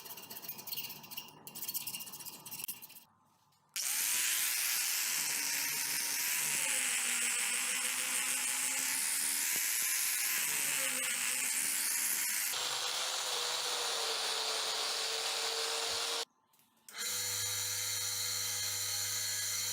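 Irregular rattling, then a power tool running steadily in several cut-together takes, its pitch wavering slightly under load.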